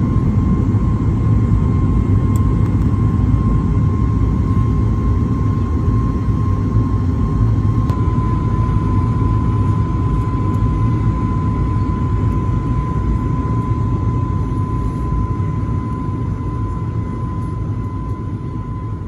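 Jet airliner cabin noise during the climb after takeoff: a heavy, steady rumble from the Boeing 737 MAX 8's CFM LEAP-1B engines, with a steady high whine over it. It slowly grows quieter.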